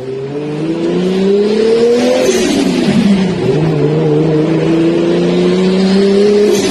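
Car engine accelerating hard, its pitch rising for about two seconds, dropping sharply as at a gear change, then climbing steadily again before falling away near the end.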